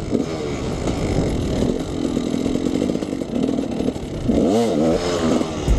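Two-stroke dirt bike engine running on the trail, with a quick rev up and back down about three-quarters of the way through.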